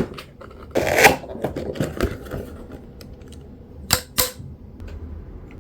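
Handling noise from a vacuum cleaner: a string of sharp clicks and knocks, like hard plastic parts being handled or snapped together, with a short scraping rustle about a second in and two sharp clicks near four seconds. The motor is not running.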